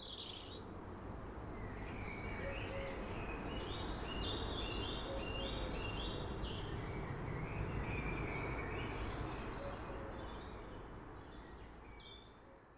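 Birds singing and chirping, with a run of quick repeated notes, over a steady background rush. The sound swells in at the start and fades out near the end.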